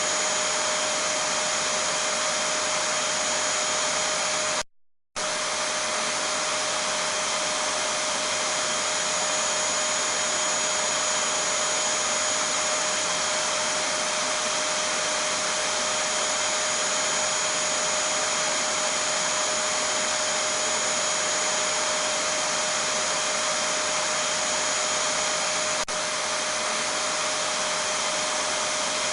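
Vacuum cleaner (hoover) motor running steadily, a constant rushing noise with a fixed whine in it. The sound cuts out completely for about half a second roughly five seconds in, then resumes unchanged.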